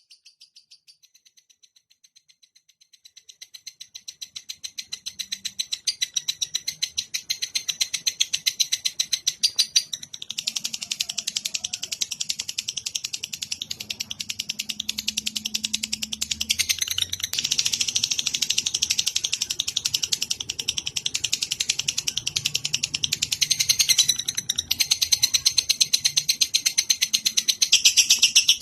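A cage songbird in a song-tutor recording gives a long, unbroken run of rapid, evenly repeated high chirps. The chirps grow louder over the first few seconds and then keep going steadily, with a faint low hum underneath.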